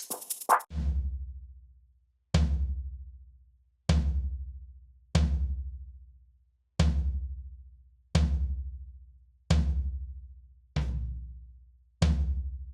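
A deep electronic bass-drum hit, struck nine times about every second and a half, each with a sharp click on top and a low boom that fades away before the next.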